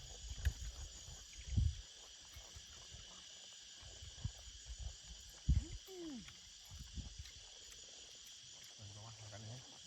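Crickets chirring steadily in the night, with a few low knocks and bumps of handling close by.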